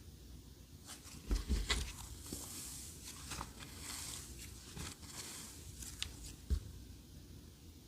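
Clear slime being squished and pressed by hand, with irregular wet clicks, pops and crackles and a couple of low squelching thumps.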